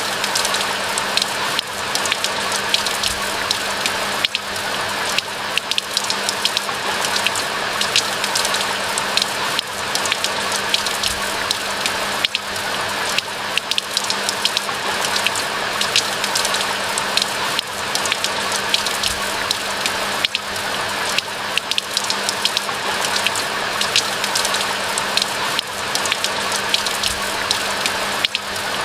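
Steady rain falling, with many separate drops tapping sharply through the even hiss. A steady low hum runs underneath.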